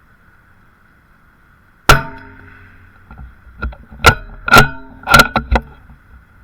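A single .22 rimfire rifle shot about two seconds in, with a short echo, followed a couple of seconds later by a quick series of sharp metallic clacks as the rifle's action is worked to chamber the next round.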